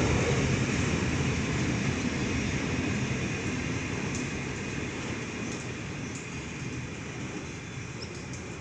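Wagons of a long freight steel train rolling slowly past, a steady rumble that gradually fades as the last of the train goes by.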